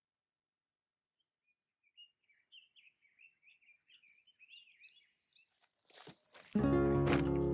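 Small songbird twittering softly in a quick warbling song, starting about two seconds in. Near the end, acoustic guitar background music comes in much louder.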